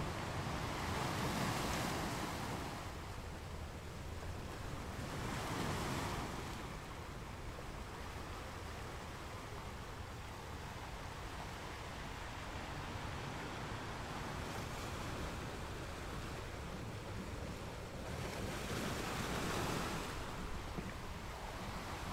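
Ocean surf: a steady wash of waves with swells that rise and fall every few seconds, loudest near the start, about five seconds in, and near the end.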